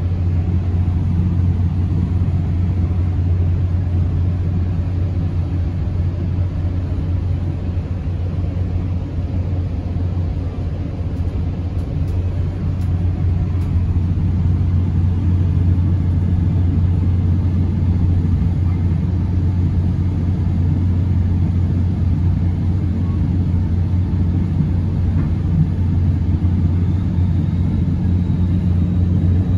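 Steady low rumble inside a moving SunRail commuter train coach, with a constant deep hum under it.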